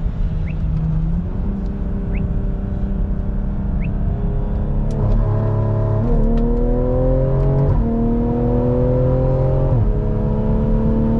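Tuned BMW B58 turbocharged inline-six accelerating hard from an anti-lag pull, heard from inside the cabin. The engine note climbs and drops back sharply with each quick upshift, about four times.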